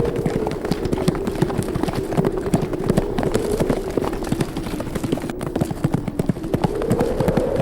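Hooves of several horses galloping, a dense, irregular clatter of hoofbeats, with wind blowing a steady moaning tone that dips in pitch and rises again near the end.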